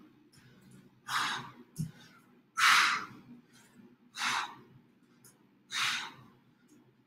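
A person breathing hard in rhythm while doing a HIIT exercise: four sharp, noisy exhales about one and a half seconds apart, with one soft low thump about two seconds in.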